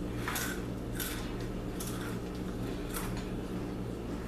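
A few short, crisp crunches of rolled tortilla chips (Takis) being chewed, over a steady low electrical hum.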